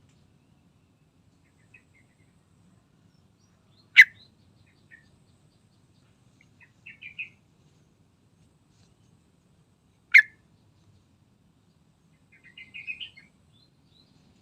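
Sooty-headed bulbul (trucukan) calling: two loud, very short sharp notes about six seconds apart, with softer brief chattering phrases between them and near the end.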